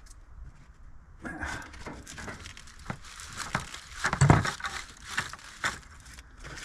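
Handling noise: irregular rustling and crinkling with scattered sharp clicks, starting about a second in, and one heavier thump a little after four seconds in.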